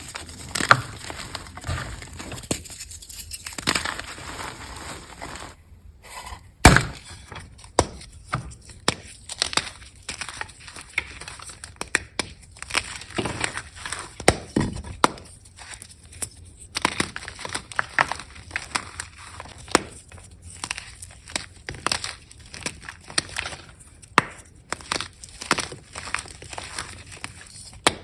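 Reformed gym chalk being crunched and broken apart: dense, irregular dry crackles and snaps, with one loud crack a little under seven seconds in. The chalk was sifted and over-dried, so it is very hard.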